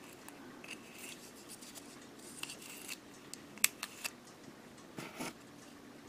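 Masking tape being peeled off painted plastic model-kit parts: faint scratching and rubbing, with a few brief tearing rasps and one sharp click about three and a half seconds in.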